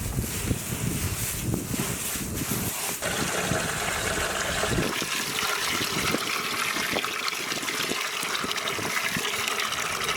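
Water poured into a vessel of broken wheat (wheat rava) to soak it, a steady pouring and splashing that grows brighter about three seconds in.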